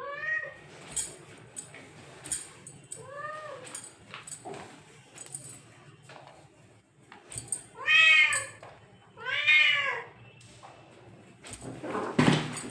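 Domestic cat meowing four times, each meow rising then falling in pitch, the last two louder and longer. Scattered short clicks between the meows, and a louder noisy burst near the end.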